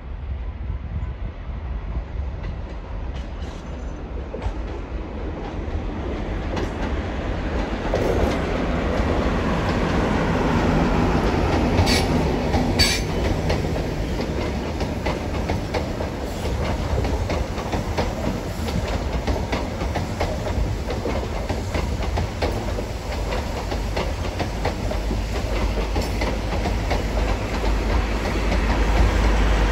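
Blue Pullman HST with Class 43 diesel power cars passing at speed. Its coaches clatter over rail joints and pointwork, with a couple of sharp clicks about twelve seconds in. A deep engine rumble swells near the end as the trailing power car comes level.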